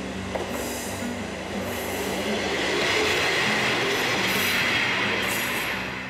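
Kisuki Line diesel train running on the rails, its wheel-and-rail noise building to its loudest about halfway through and then easing off. The noise cuts off abruptly at the end. Soft background music plays underneath.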